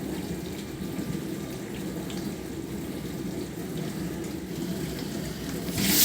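Bosch SMV50E10RU dishwasher in its wash phase: the circulation pump hums steadily while water sprays inside the tub at full pressure. Near the end the hiss of the water suddenly grows louder.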